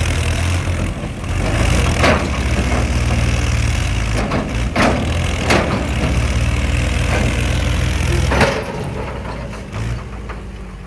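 Tractor engine running steadily at a low idle, with a few sharp knocks. The engine sound falls away about eight and a half seconds in.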